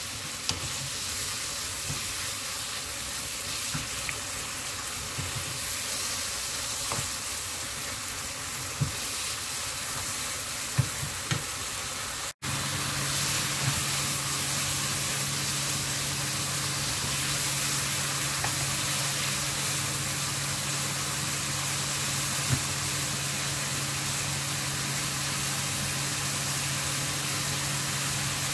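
Pork and aged kimchi sizzling steadily in a frying pan over high heat, with a few taps of a wooden spatula in the first half. About twelve seconds in there is a brief cut, after which a low steady hum runs under the sizzle.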